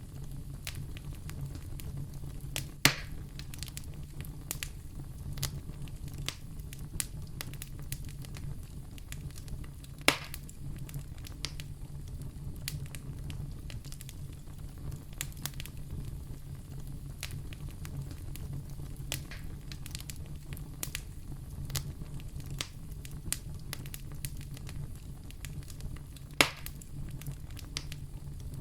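Wood fire burning in a fireplace: a steady low rumble with frequent small, sharp crackles and three louder pops, about three seconds in, about ten seconds in, and near the end.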